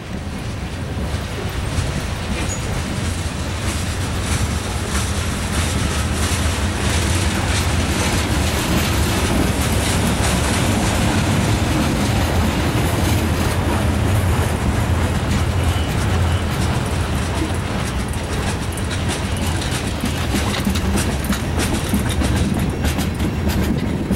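Freight train's tank cars rolling past on the rails: a steady rumble of steel wheels on track with a dense stream of clicks.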